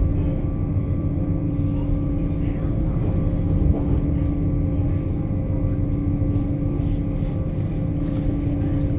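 Passenger train running at speed: a steady low rumble of the wheels on the rails with an even hum held throughout.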